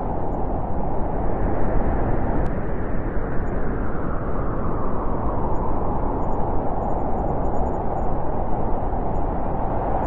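Steady wind rushing, a low, even noise that eases a couple of seconds in and swells again near the end.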